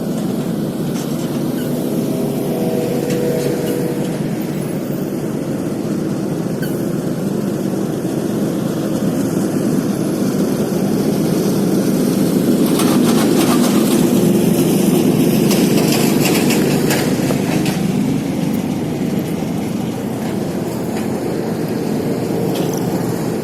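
Steady rushing wind and road noise of a bicycle ride, louder for several seconds past the middle, with brief rattling clicks.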